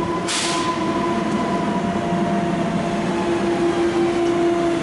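Electric train running with a steady motor whine over rumbling noise; the whine slides down in pitch near the end as it slows. A brief hiss sounds just after the start.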